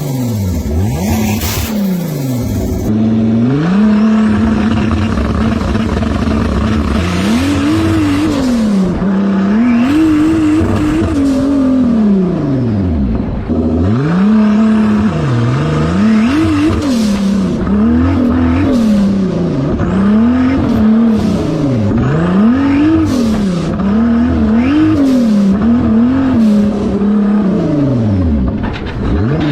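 Turbocharged VW VR6 engine swapped into a tractor, revved up and down over and over. Several times it is held at a steady pitch between the revs.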